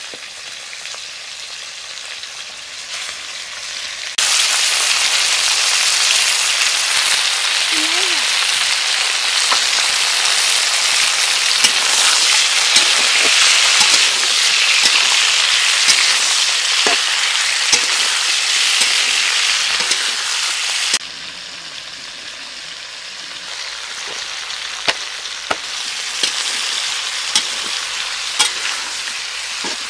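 Chicken pieces sizzling in hot oil in a black iron wok, turned with a metal spatula that clicks and scrapes against the pan. The sizzle is louder from about four seconds in until about twenty-one seconds in.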